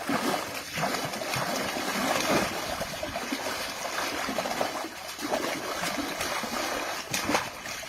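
Water splashing and sloshing in irregular, continuous churning.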